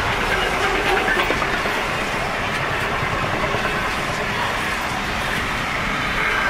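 Container freight wagons rolling past on the rails: a steady rumble and hiss of steel wheels on the track, with a few faint clicks in the first second or so.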